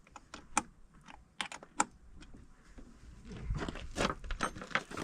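Irregular light clicks and knocks of hand work on tractor metal parts. Low handling thumps follow from about three and a half seconds in.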